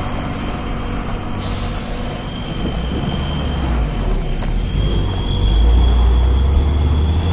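Heavy truck's diesel engine running under load on a steep climb, with a steady high whine, growing louder about five seconds in. A hiss of air comes in about a second and a half in.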